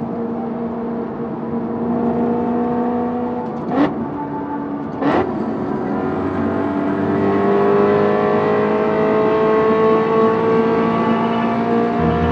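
BMW E92 M3's 4.0-litre S65 V8 running through an aftermarket ASSIST exhaust as the car drives at speed, with two short sharp cracks about a second apart near the middle. The engine note then climbs steadily as the car accelerates.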